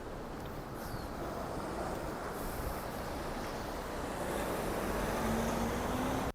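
Steady outdoor street ambience: a low rushing noise of traffic and wind, slowly growing a little louder near the end.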